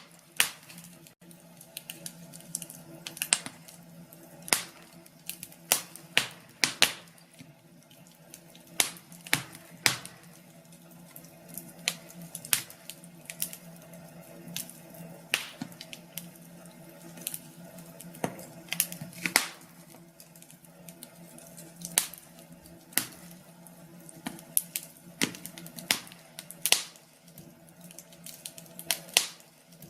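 Wood fire crackling in a fireplace: irregular sharp pops and snaps, a few a second, over a low steady hum.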